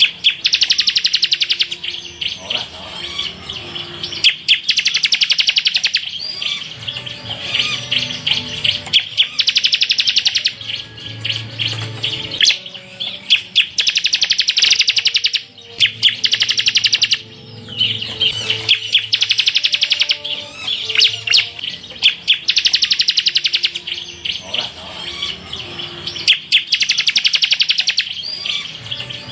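Bar-winged prinia (ciblek) singing in rapid-fire trills ('tembakan'): fast rattling bursts of one to two seconds each, repeated with short pauses.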